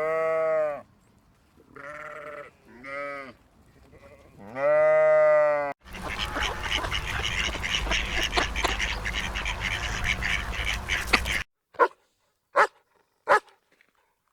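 Farm animals calling: a bleating call is repeated four times, the longest and loudest near the middle. After an abrupt cut comes a dense, noisy chorus of calls, and then three short sharp calls near the end.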